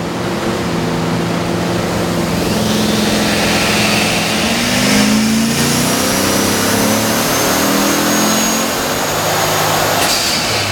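Turbocharged LS3 V8 of a 2010 Camaro SS making a full-throttle pull on a chassis dyno, the engine note climbing in pitch over several seconds. A thin high whistle rises through the middle of the pull, and there is a sharp burst near the end as it comes off the throttle.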